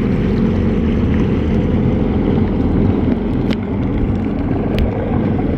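Steady low rumble of a vehicle under way, engine and motion noise, with two short clicks late on.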